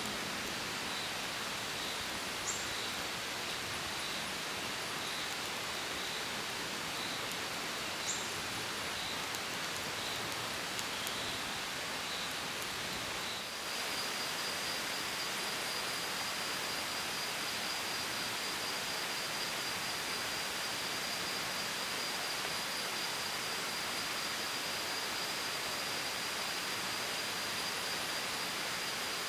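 Rain-forest ambience: a steady hiss of outdoor noise with a thin, high chirping that pulses about twice a second, changing a little before halfway to a slightly higher, continuous buzz.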